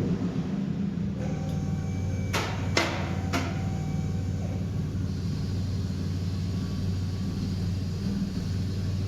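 2003 Ford Ranger V6 idling steadily through a freshly fitted true dual straight-pipe exhaust with no mufflers. Three sharp knocks sound over it between about two and a half and three and a half seconds in.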